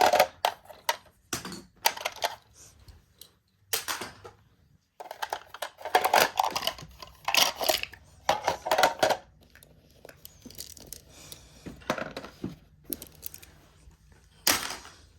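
Small hard toy pieces being handled and rummaged through, clicking and clattering in irregular bursts, with a short pause about four seconds in.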